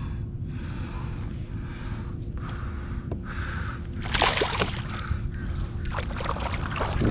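Steady low wind and water noise beside a kayak, broken about four seconds in by a short burst of water splashing, as when a caught snook is let back into the water.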